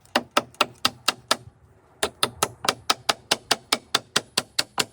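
Hammer driving small finishing nails into wood, struck in quick light taps about four or five times a second, with a short pause about a second and a half in before the tapping resumes.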